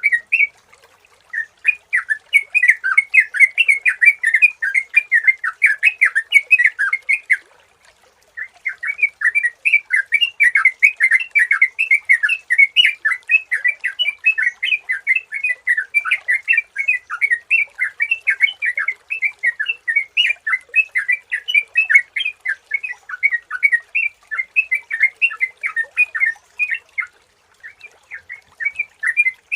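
Yellow-vented bulbul (trucukan) singing a fast, bubbly chattering song in long unbroken runs, with short breaks about a second in, around eight seconds in, and near the end.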